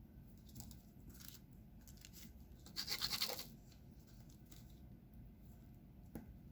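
Small plastic diamond-painting drills rattling in a tray for about a second, starting near the middle, with a few faint scratches before it.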